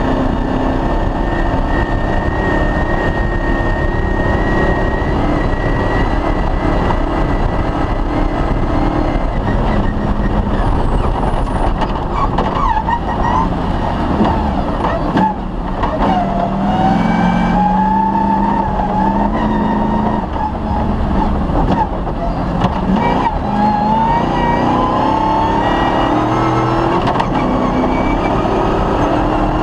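Cross-country rally car's engine running hard under a steady rumble. Its pitch dips about halfway through, then climbs in two long rises as it accelerates.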